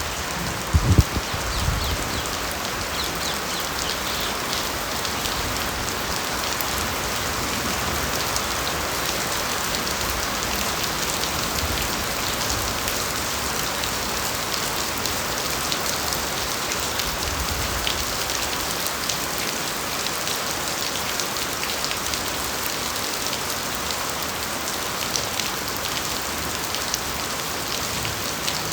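Steady rain falling on bamboo forest foliage, an even hiss with many close drops pattering. A few low thumps in the first couple of seconds.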